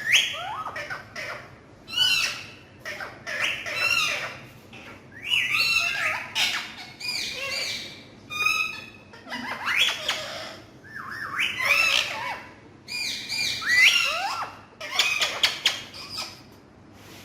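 A pet parrot squawking and calling in a run of short harsh bursts, each gliding up and down in pitch, coming about once a second with brief pauses between.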